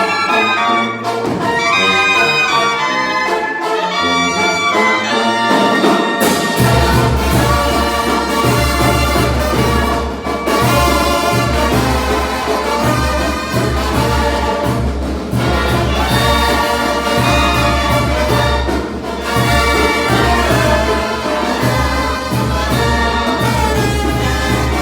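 Loud brass band music: trumpets and trombones play the melody, and a heavy, pulsing bass line comes in about six seconds in.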